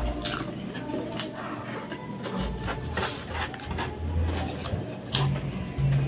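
Close-miked eating by hand: chewing with wet lip smacks and mouth clicks as fingerfuls of rice are taken up and eaten. A low hum with the mouth closed comes in near the end.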